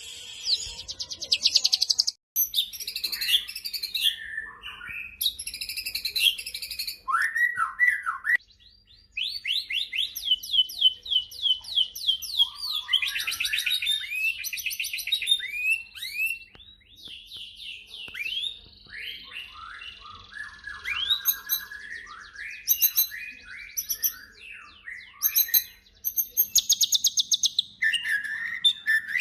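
White-rumped shama (murai batu) singing a long, varied song of rapid trills, chattering rattles and rising and falling whistles, breaking off briefly twice. It is the full, loud repertoire used as a bait song to provoke other shamas into singing.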